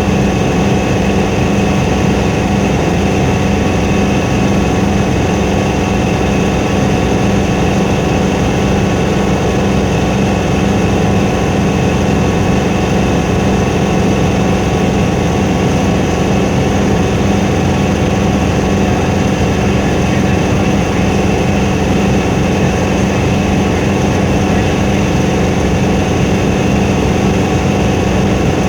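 Helicopter engine and rotor noise: a loud, steady drone with a strong low hum and several steady higher tones.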